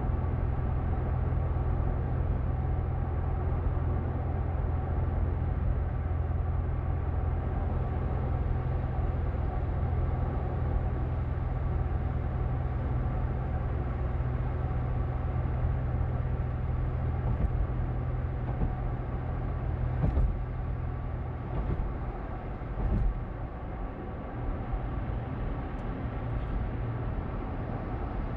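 Steady low rumble of a car's engine and tyres heard inside the moving car, with a couple of brief knocks about twenty seconds in, after which it runs a little quieter.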